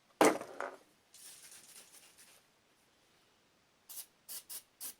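A loud knock, then an aerosol can spraying onto screws that are stuck tight: a hiss of about a second, then four short squirts near the end.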